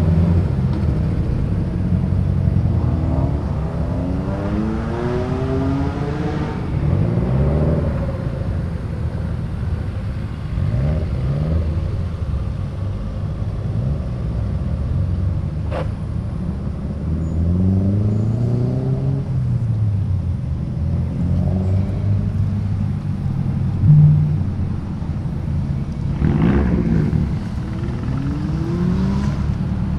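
Modified cars pulling away one after another, engines revving and rising in pitch as each accelerates, over a steady low exhaust drone. A short loud thump about three-quarters of the way through.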